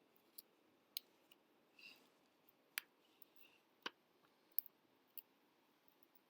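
Near silence with faint, irregular sharp clicks and ticks, scattered about once or twice a second.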